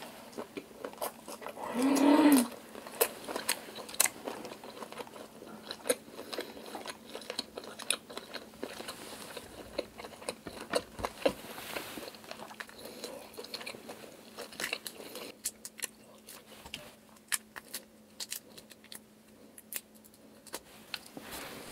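Close-miked biting and chewing of cooked black tiger shrimp, many small wet clicks and crunches. A short pitched vocal sound about two seconds in is the loudest moment. Near the end, clicking and crackling as a shrimp's shell is peeled off by hand.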